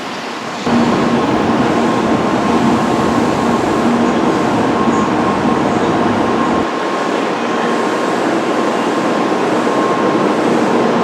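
Shinkansen bullet train running past the platform: a loud, steady rushing rail noise with a faint steady whine. It starts suddenly about a second in, and its deep rumble falls away about two-thirds of the way through.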